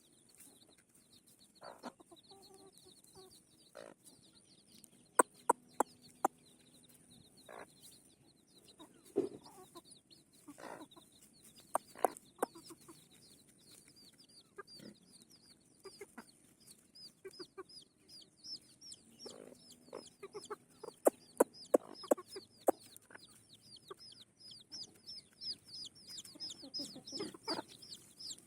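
Free-range desi chickens clucking now and then, over a constant run of rapid, high, short chirps that grow busier toward the end. Several sharp clicks stand out, and a faint steady high hiss runs underneath.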